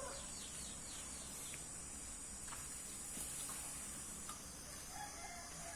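Chickens calling in the background: a rooster's crow trails off at the start and a short cluck comes about five seconds in, over a steady high hiss.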